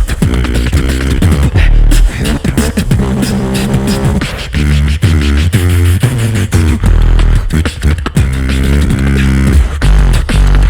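Two beatboxers performing together, vocal percussion only: sharp clicks and snare-like hits over a deep, heavy vocal bass, with pitched hummed bass lines that slide up and down.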